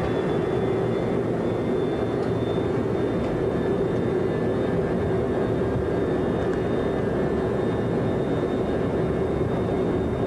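Boeing 737-200's Pratt & Whitney JT8D turbofans running at high takeoff thrust, heard from the flight deck as a steady, unbroken engine noise with a thin, steady high whine over it.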